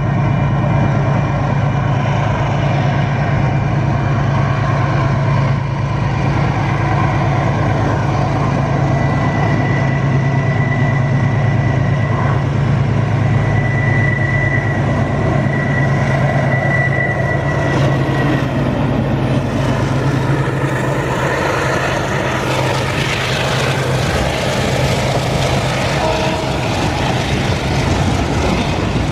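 DXB-class diesel-electric locomotive approaching and passing at the head of a freight train, its engine a steady low drone, with a thin high whine for several seconds midway. In the last third the rolling rumble of container wagons passing close by takes over.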